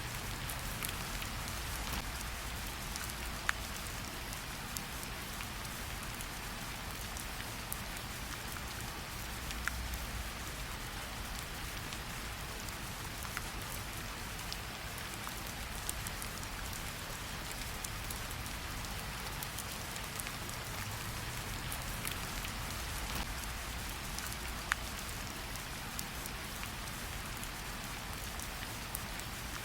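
Steady light rain pattering on tree leaves, with scattered louder single drops dripping at irregular intervals.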